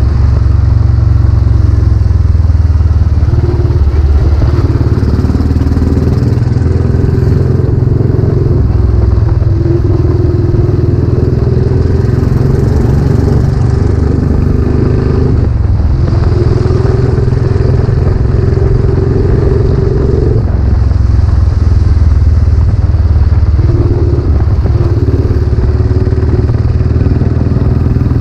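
Royal Enfield Classic 500's single-cylinder four-stroke engine running under way through a newly fitted aftermarket silencer. The engine note is loud and continuous and changes pitch several times.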